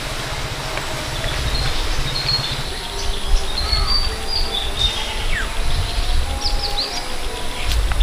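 Small birds chirping, short high calls and a few quick falling notes scattered through, over a low rumble.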